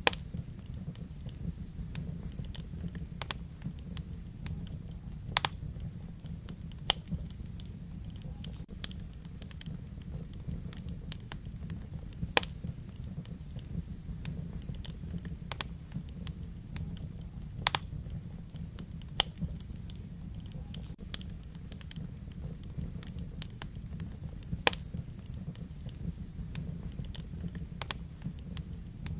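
Wood fire in a fireplace crackling, with irregular sharp pops of varying strength over a steady low rumble of the flames.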